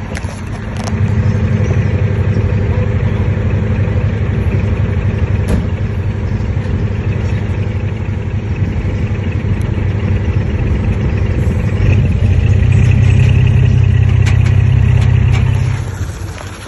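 Heavy diesel engine of earthmoving machinery running under load. It picks up about a second in, works harder for a few seconds near the end, then eases off.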